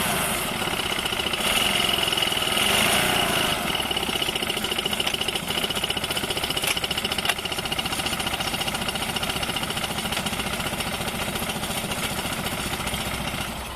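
Honda 15 hp four-stroke outboard motor running, rising and falling briefly in the first few seconds and then running at a steady speed with a high whine over the engine note.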